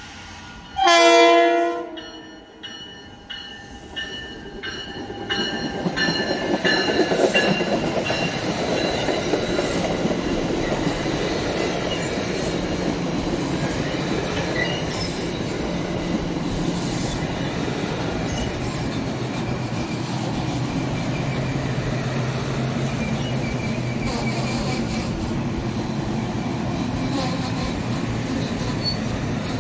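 A train horn sounds one short blast about a second in. Then a passing train's wheels and cars build to a steady rumble and clatter that continues.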